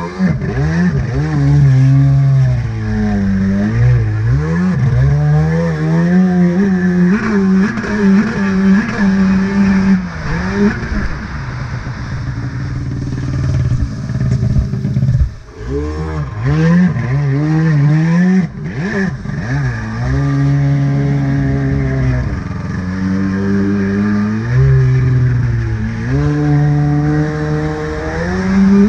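Jet ski engine running under changing throttle, its pitch climbing and falling again and again, with a brief drop to near idle around the middle before it picks up again.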